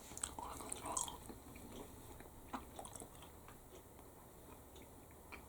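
A person chewing a mouthful of soft noodles with faint wet mouth clicks, mostly in the first second.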